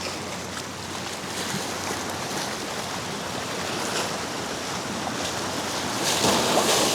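Sea surf washing against a rock jetty with wind buffeting the microphone, an even rush that swells louder about six seconds in.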